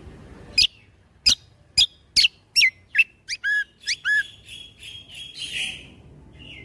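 Kecial kombo (cucak kombo) from Lombok singing its 'tembakan' phrase: a run of loud, sharp whistled notes that each sweep downward, about two a second. These are followed by two lower slurred notes and a short buzzy rattle near the end.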